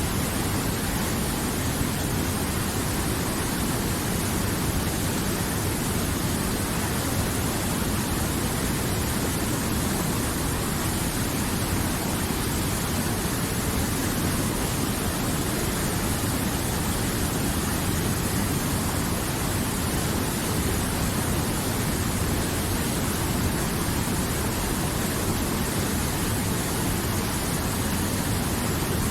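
River water flowing, a steady even rushing with no breaks or changes.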